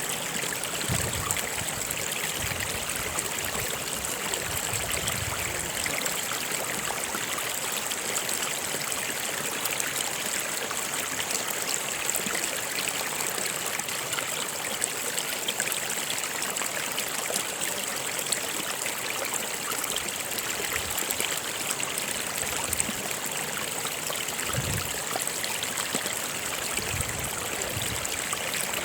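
Steady rush of a flowing stream, with faint low gurgles now and then.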